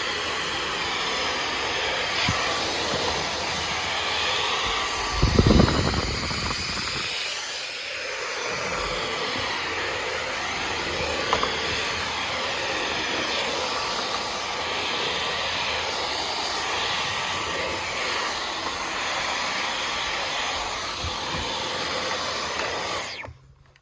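Dyson V15 Detect cordless stick vacuum running steadily with a high whine while cleaning along skirting boards, with a brief louder low rumble about five seconds in. It switches off near the end.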